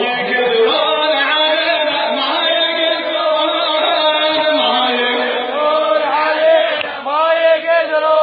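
Male voice chanting an Arabic nasheed, an Islamic vocal anthem, in long held, melismatic notes.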